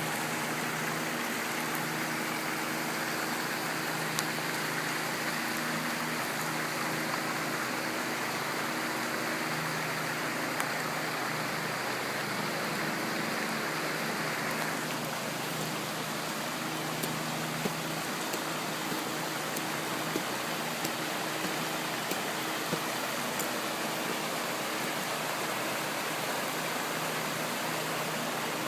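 Steady rushing of floodwater, with a faint low hum underneath that drops out about halfway through.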